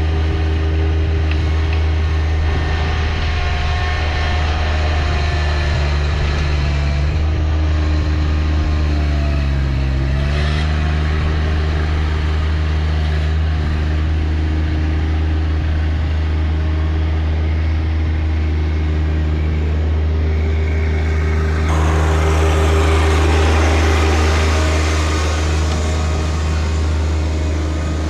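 John Deere 1025R compact tractor's three-cylinder diesel engine running steadily while working the 260B backhoe. Its pitch sags briefly under load a little before halfway and recovers, and a harsher, hissier strain comes in about three-quarters of the way through.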